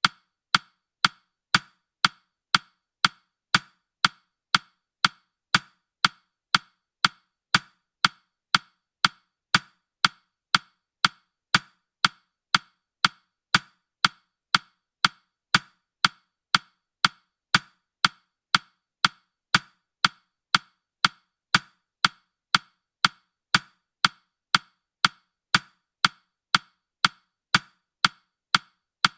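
Countdown timer's ticking sound effect: short, sharp, woodblock-like ticks at a steady rate of about two a second.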